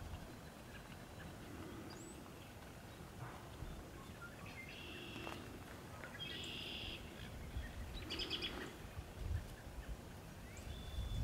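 Wild birds calling: three short, chattering high phrases in the middle and a thin whistle near the end, over a faint, steady low rumble.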